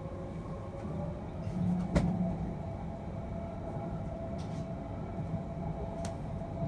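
Odakyu 50000-series VSE Romancecar heard from inside the passenger cabin while running: a steady low rumble of the running gear with a faint steady tone over it. A sharp click comes about two seconds in and a fainter one near the end.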